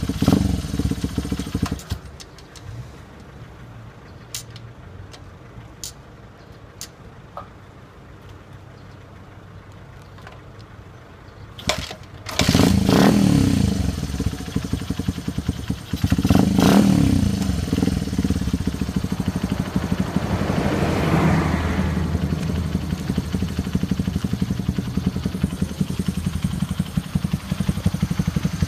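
Honda Ape 50's single-cylinder four-stroke engine runs, then cuts out about two seconds in, leaving a quiet stretch with a few faint clicks. About twelve seconds in it starts again, is blipped twice, and settles into a steady idle.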